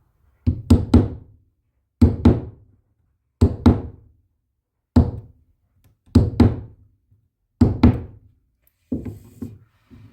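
Repeated hard knocks, struck in quick groups of two or three, with a group about every one and a half seconds.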